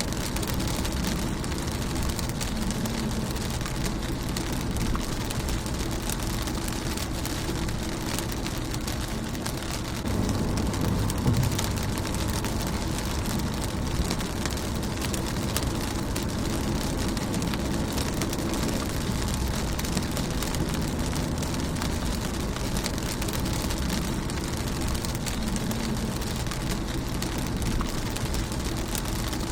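Rain falling on a car's windshield: a steady patter of drops with a low rumble underneath. The rumble gets louder for a few seconds about ten seconds in.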